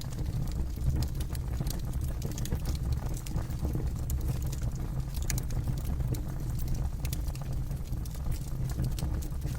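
Campfire burning, with frequent irregular crackles and pops from the wood over a steady low rumble.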